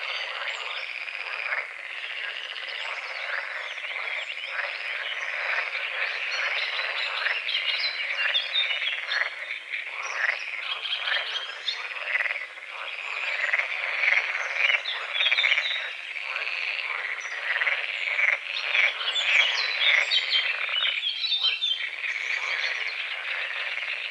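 A dense chorus of many frogs croaking, with rapid overlapping calls that swell louder in places.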